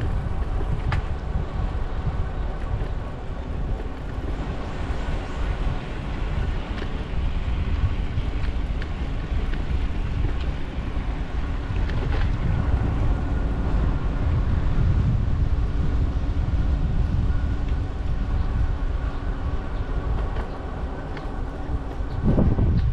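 Wind rumbling on the microphone of a moving bicycle, with a faint steady hum above it and a few light clicks; a louder gust comes near the end.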